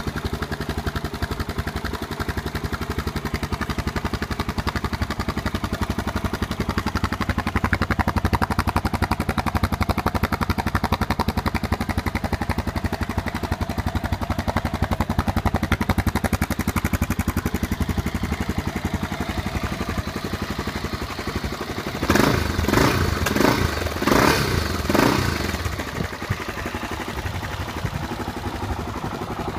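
Honda XR400 single-cylinder four-stroke engine idling through a Delta slip-on muffler. Near the end come several quick, loud throttle blips before it settles back to idle.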